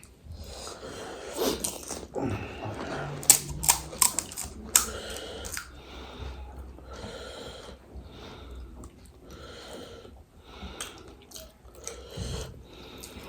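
Close-up eating sounds of pani puri: crisp puri shells cracking and crunching in the mouth, with wet chewing. The sharp cracks come thickest a few seconds in.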